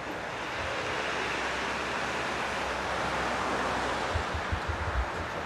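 Steady rushing noise of wind across the microphone, swelling in the middle, with low buffeting thumps on the microphone in the last second or so.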